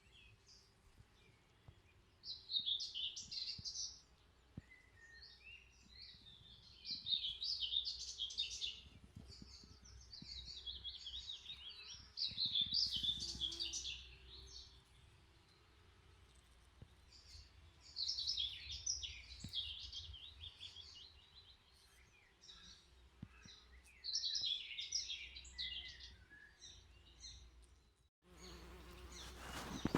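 A songbird singing short trilled phrases of one to two seconds, repeated about every five or six seconds, over a faint low rumble. Near the end the background drops out for a moment and comes back fuller.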